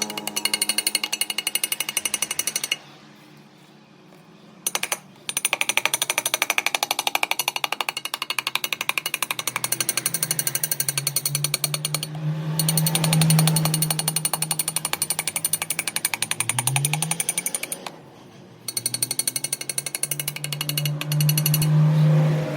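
Rapid-fire hammering of a power hammer tool working metal, stopping twice briefly. A low steady hum runs underneath and rises in pitch once, near the three-quarter mark.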